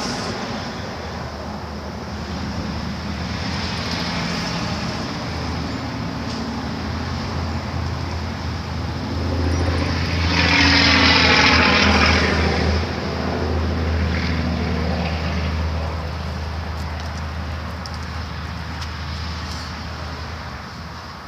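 Steady outdoor road rumble and wind on the microphone, with a car driving past, loudest from about ten to thirteen seconds in.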